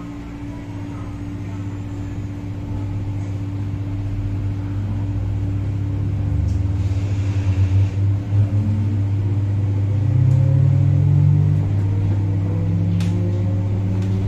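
Metro Cammell MLR electric multiple unit heard from inside the carriage as it pulls away from a station: traction motors humming, with a faint whine that slowly rises in pitch as the sound grows louder. A single sharp click sounds near the end.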